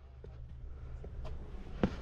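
Faint, scattered footsteps on a rocky trail, a few separate light knocks over a low rumble.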